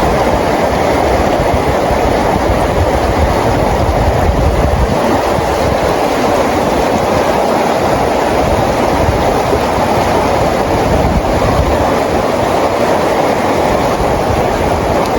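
Steady rain falling: a dense, even hiss with a low rumble beneath it.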